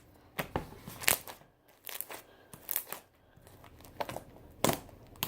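Freshly made, still-sticky homemade slime being squeezed and pulled by hand, giving several sharp, irregularly spaced pops and crackles.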